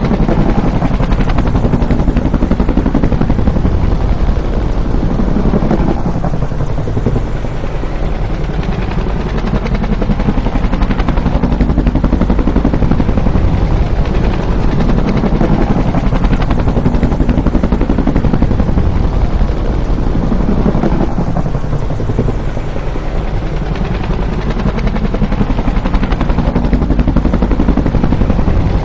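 Bell UH-1 "Huey" helicopter flying past, its two-bladed main rotor making a rapid, steady blade slap. The sound swells and falls away twice, about fifteen seconds apart.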